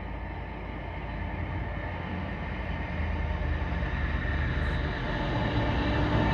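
Train approaching along the line, its rumble growing steadily louder.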